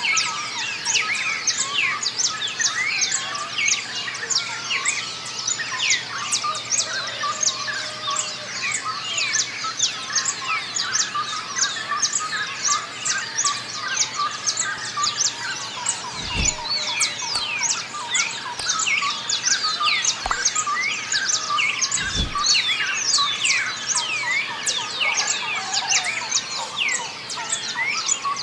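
Dawn chorus of many small songbirds chirping and singing at once, a dense, continuous mix of short high whistles and tweets. A couple of brief low thumps come about two-thirds of the way through.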